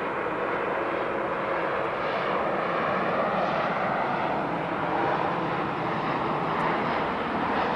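Jet airliner engines running, a steady rushing noise that grows slightly louder.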